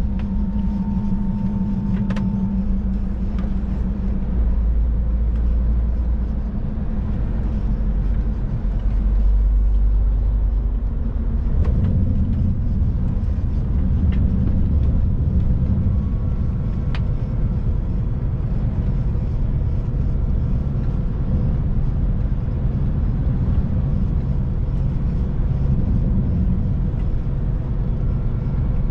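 Scania truck's engine and road noise heard inside the cab while driving, a steady low drone whose note changes about twelve seconds in, with a few faint clicks.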